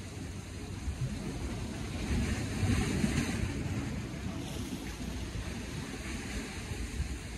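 Wind buffeting the microphone over the wash of the sea, swelling louder a couple of seconds in and easing off again.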